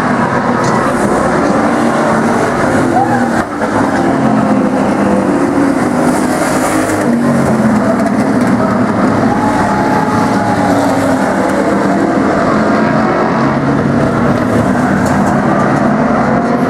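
Engines of several demo stock cars and trucks racing around an oval track, a steady loud mix of engine notes whose pitches rise and fall.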